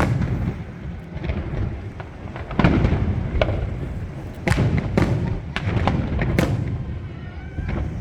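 Fireworks display: aerial shells bursting one after another with sharp bangs and deep booms, several in quick succession in the middle.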